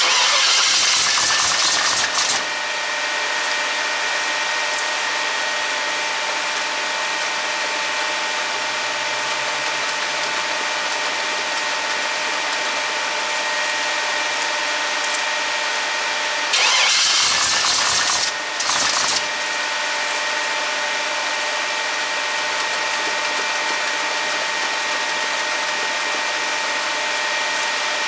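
Chevy S10's swapped 350 V8 cranked over on the starter in two bursts of about two seconds each, one at the start and one about halfway through, without catching on a hard cold start. A steady high whine continues between the cranking bursts.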